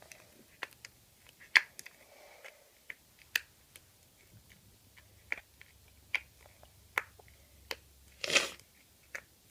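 Bubblegum slime being squeezed and worked in the hands, giving irregular sharp clicks, with a longer squelch about eight seconds in.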